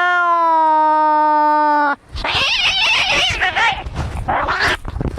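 Angry cats fighting: one long, drawn-out yowl held at a steady pitch for about two seconds, then a harsher, rasping screech and shorter broken cries.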